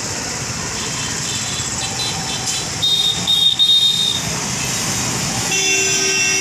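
Road traffic running steadily with vehicle horns honking: a loud, high horn from about three seconds in for about a second, and another horn starting near the end.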